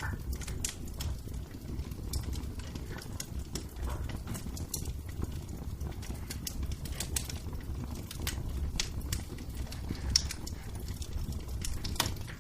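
Wood fire crackling in a fireplace: irregular sharp pops and snaps over a steady low rumble, with a louder pop about ten seconds in and another near the end.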